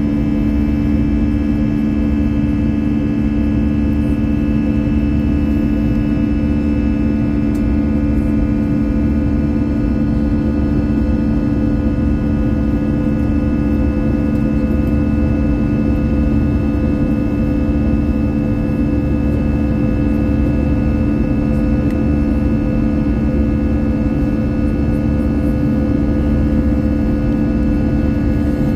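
Airbus A321-200 jet engines running at a steady low power, heard from inside the cabin. A constant drone with several steady tones over a low rumble, without rising or falling, as heard while taxiing.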